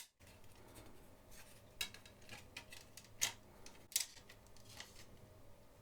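Hands handling a DVD case and CD album packaging: a few sharp light plastic clicks and fainter taps.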